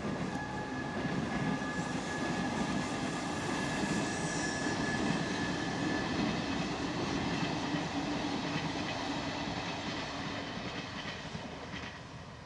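Trenord regional train of MDVC coaches with an E464 electric locomotive passing on the line: a steady rumble of wheels on the rails, with a high steady whine through the first half, dying away near the end as the train moves off.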